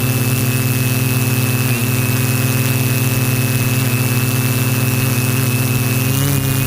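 Align M470 multirotor drone's electric motors and propellers running steadily in flight: a constant hum with a thin high whine over it, shifting slightly about two seconds in and again near the end.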